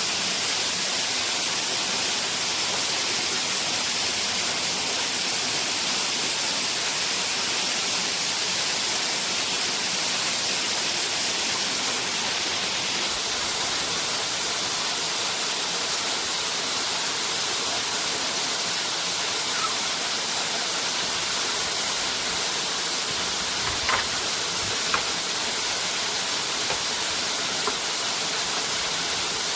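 Steady rushing of a waterfall, an even hiss of falling water, with two faint brief knocks near the end.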